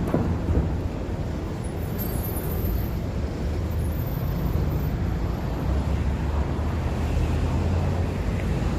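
City street traffic: a steady low rumble of vehicle engines and tyres, with a deeper engine hum building over the second half as a heavier vehicle runs close by.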